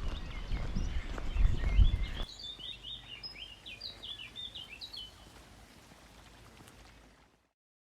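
Small birds chirping and singing in quick, high phrases, over footsteps thudding on a path during the first two seconds. The birdsong thins out and the sound cuts off abruptly near the end.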